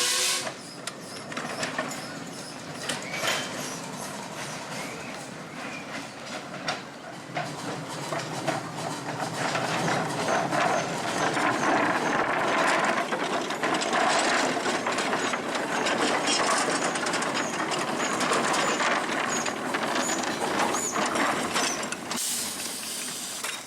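Miniature railway train running along its track, with a steady rumble and a rapid clicking and rattling of wheels and rolling stock over rail joints, louder from about a third of the way in. A short burst of hiss comes near the end.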